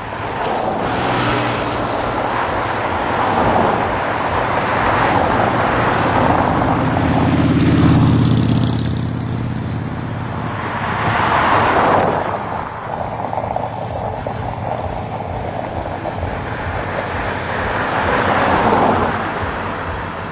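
Heavy trucks driving past one after another, the sound swelling and fading as each one goes by. The loudest pass, about eight seconds in, carries a deep diesel engine note.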